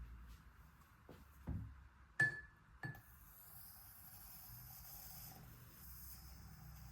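A soft knock, then two small clinks that each ring briefly, like glass touched against glass, followed by a few seconds of soft, steady, high hiss.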